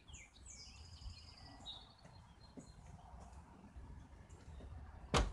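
A small bird calling in the first two seconds: a few quick notes sliding down from high pitch, then a high trill, over faint outdoor background noise. A single sharp click about five seconds in.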